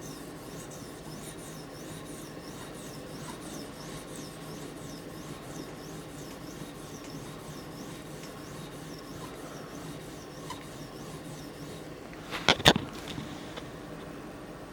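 Tanto blade of an OTF knife stroked back and forth on an 800-grit sharpening stone with light pressure: a steady, even rubbing at about one and a half strokes a second, the polishing stage of the edge. The strokes stop a little after ten seconds in, and a quick cluster of sharp clicks, the loudest sound, follows about twelve seconds in.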